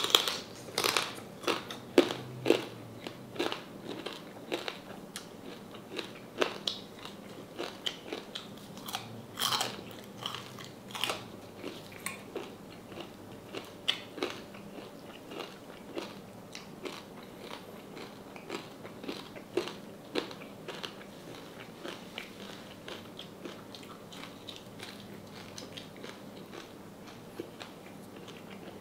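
Close-up crunching and chewing of crispy deep-fried salted pork knuckle, its hard fried skin crackling with each bite. Sharp crunches come thick and loud in the first half, then turn fewer and softer toward the end.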